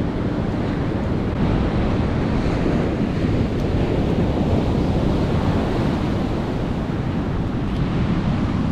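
Ocean surf breaking and washing on a sandy beach, a steady rush, with wind buffeting the microphone.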